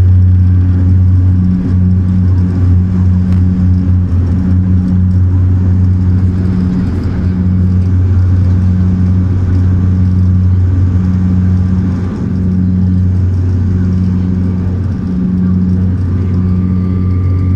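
Saab twin-turboprop airliner's propellers and engines droning steadily, a deep hum with a throb about once a second.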